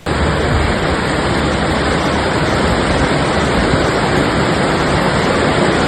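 Loud, steady rush of turbulent water.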